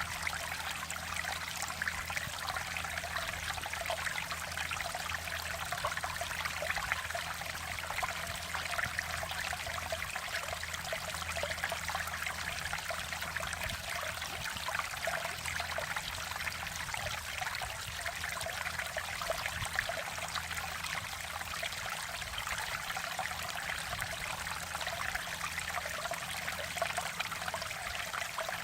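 A mountain valley stream flowing with a steady babbling splash and no pauses.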